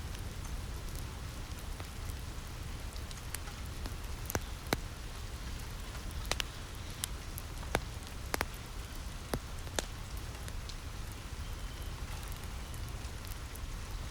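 Steady rain falling on a roof over a low rumble, with a wood fire crackling in sharp single pops now and then, most of them between about four and ten seconds in.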